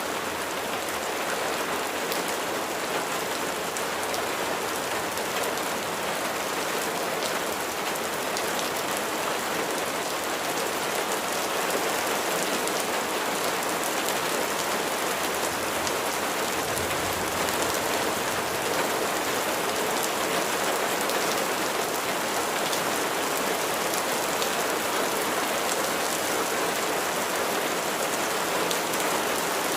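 Steady rain falling, a dense even hiss with fine patter of individual drops hitting a surface.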